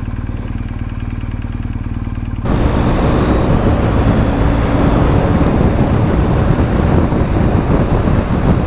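BMW R1250 GS Adventure's boxer-twin engine running steadily; about two and a half seconds in the sound jumps suddenly to a louder rush of wind and engine noise, as of riding at speed.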